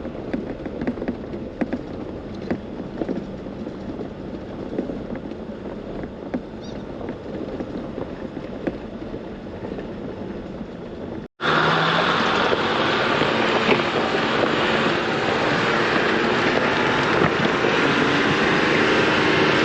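Off-road vehicle driving a rough dirt trail, with frequent sharp knocks and rattles over a low rumble. About eleven seconds in it cuts abruptly to a louder, steady run of engine and wind noise.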